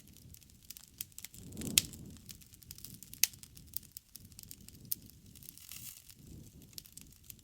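Campfire crackling: irregular sharp pops and snaps over a low, steady rumble of burning wood, with the loudest snaps a little under two seconds and about three seconds in.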